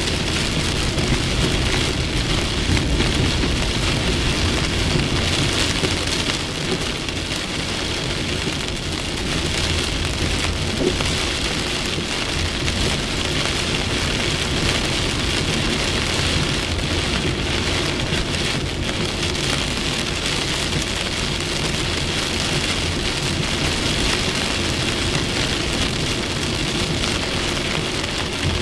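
Heavy rain from a violent thunderstorm falling steadily in a dense, unbroken downpour, with a low rumble underneath.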